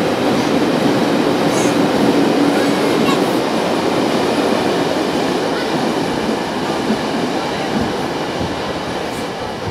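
A train running past: a steady, loud rumble and rail noise that slowly fades towards the end.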